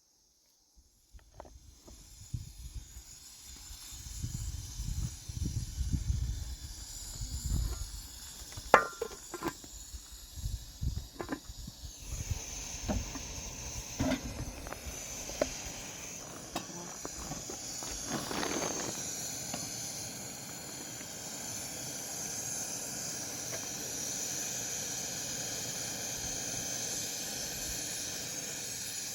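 Low thuds and sharp clicks of things being handled, then a steady hiss from about halfway through.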